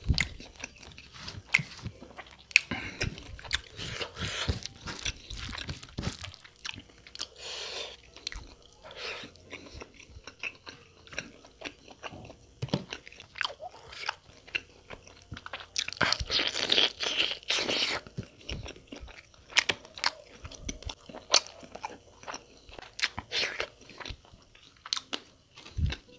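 Close-up eating sounds of a person chewing mouthfuls of mutton curry and rice: wet chewing and crunching with many sharp mouth clicks, and a louder stretch about two-thirds through.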